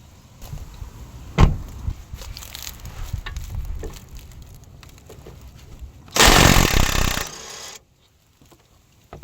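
Tools and metal parts knocking and clinking as they are handled, then a loud burst of about a second and a half from an impact wrench, which stops suddenly.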